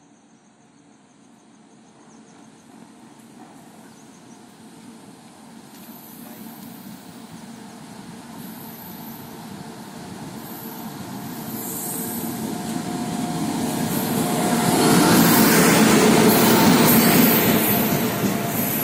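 Indian Railways express passenger train hauled by an electric locomotive, running slowly into a station. Its rumble grows steadily louder and is loudest about fifteen seconds in as the locomotive and leading coaches pass, with thin high-pitched wheel squeals from about six seconds in.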